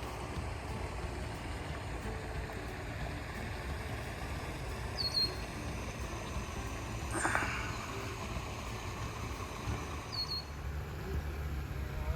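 Quiet outdoor ambience over a steady low rumble, with two short, high, falling bird chirps about five seconds apart. About seven seconds in there is one brief noisy sound.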